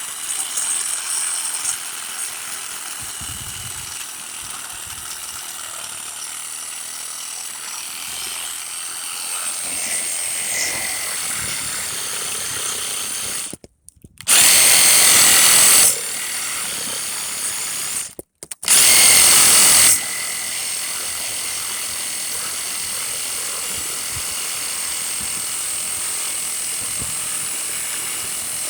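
DeWalt DCS381 20-volt cordless reciprocating saw with a pruning blade, running steadily with a whine as it cuts through a fallen tree limb. Twice, about halfway through, the sound cuts out for a moment and comes back much louder for about two seconds.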